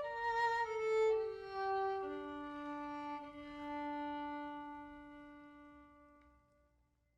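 Solo violin playing a slow falling line of single bowed notes, settling on one long low note held for several seconds that fades away just before the end.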